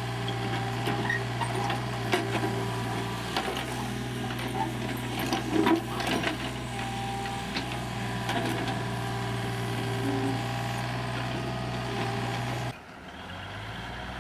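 Heavy engine of a large truck or machine running steadily, with scattered clanks and knocks over it; the sound drops away abruptly near the end.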